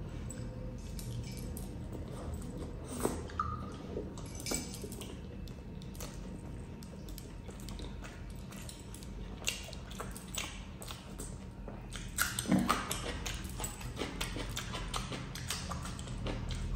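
Close-miked eating sounds of a man chewing chapati soaked in chicken curry: irregular wet mouth smacks and clicks, with a louder run of smacking about twelve seconds in.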